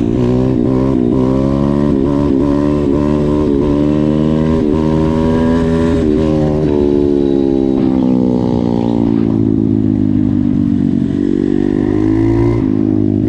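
YCF 150 pit bike's single-cylinder four-stroke engine running under way: the revs climb over the first few seconds, ease off slowly through the middle, and pick up again near the end.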